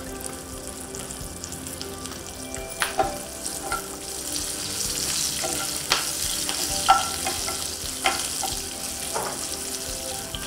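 Curry leaves, green chillies and tempering seeds sizzling in hot oil in a non-stick pan for a tempering (popu). A steel spoon stirs them and knocks against the pan about six times. The sizzle gets louder about four seconds in.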